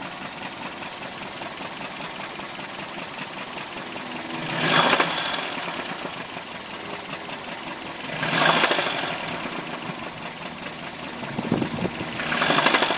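Toyota 22RE four-cylinder engine idling with a fast, even knock, revved briefly three times, about five, eight and a half and twelve and a half seconds in. It is a knocking noise whose cause the owner does not know.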